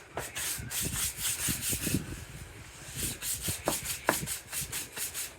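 Something rubbing back and forth over a sawn wooden board in quick strokes, a few a second, with a short lull about two seconds in and a few brief squeaks.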